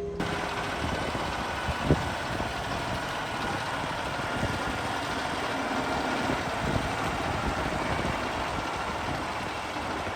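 Truck running: a steady engine and road noise, with one short knock about two seconds in.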